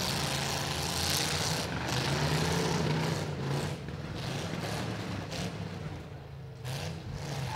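Demolition derby cars' engines running and revving, with a noisy, rough exhaust note; louder for the first three seconds, then easing off.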